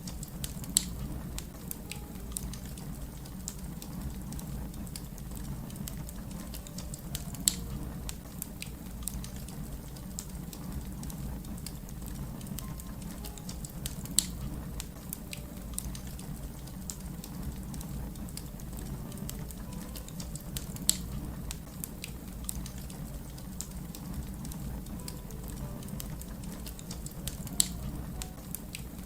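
Wood fire crackling over a steady low rumble, with small ticks and snaps throughout and a loud pop about every seven seconds, five in all.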